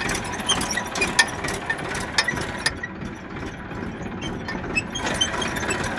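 Tractor diesel engine running steadily, with a few sharp clicks over it.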